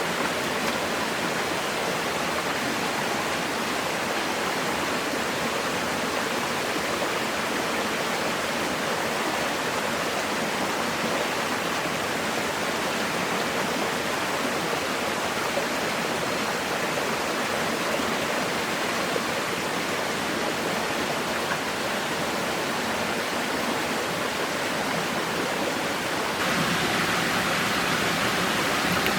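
Steady rushing of water, heavy rain or a fast stream, that jumps a little louder near the end.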